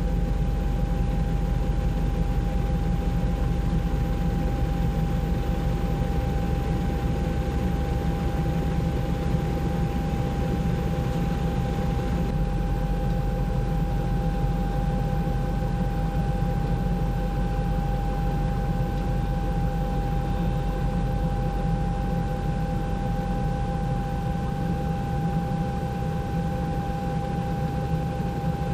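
Helicopter running steadily: a constant low rumble with a steady high whine over it.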